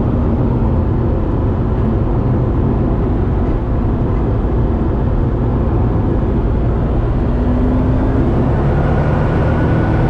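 Twin-turbo 427 V8 Corvette cruising at steady speed: an even low engine drone with road noise, no revving or boost pull.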